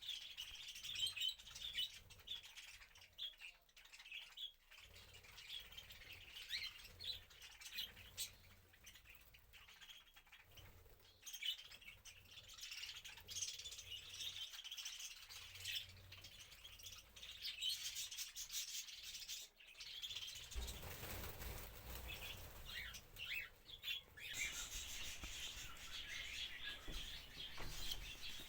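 Faint chirping of pet cockatiels and budgies, with soft scratching and clicking, typical of the birds pecking at their food. A steadier low hiss joins about two-thirds of the way through.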